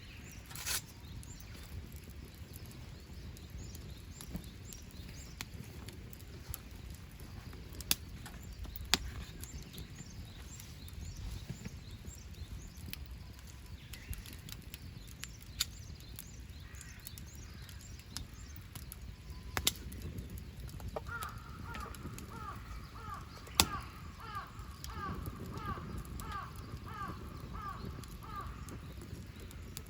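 Wood campfire crackling with a low steady rumble and occasional sharp pops, the loudest just after the start and around the middle. About two-thirds through, a bird calls a quick run of short repeated notes for several seconds, with faint birdsong further off.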